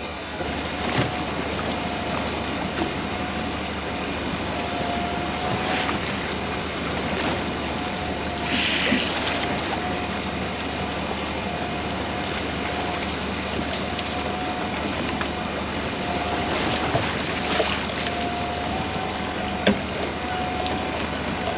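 Small fishing boat at sea with wind on the microphone and water noise, a faint steady whine that comes and goes, and scattered knocks and clatter.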